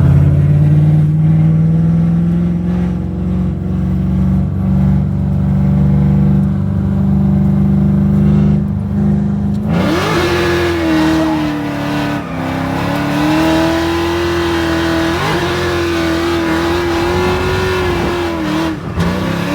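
LS2 V8 engine of an S14 Nissan Silvia drift car running at steady moderate revs, then revving hard about ten seconds in. It stays high from there, wavering up and down with a few short dips, over a rushing hiss.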